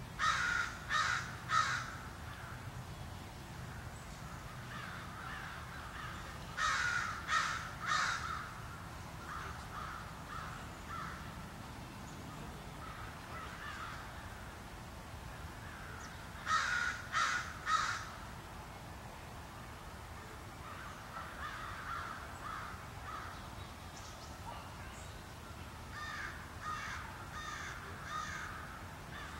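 A bird calling outdoors in quick sets of three short calls, repeated about every ten seconds, with fainter calls in between and a softer set of four near the end.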